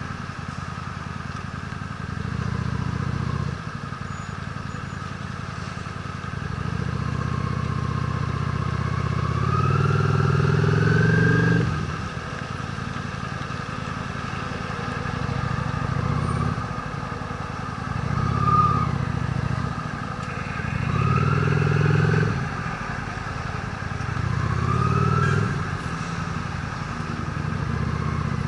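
Honda Steed V-twin motorcycle engine running on the road, speeding up in a series of rising pulls that each drop back off, with the longest and loudest pull near the middle.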